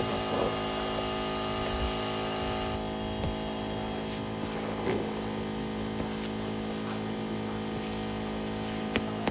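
A machine running with a steady electric-motor hum; its upper hiss drops off about three seconds in, and there is one sharp click near the end.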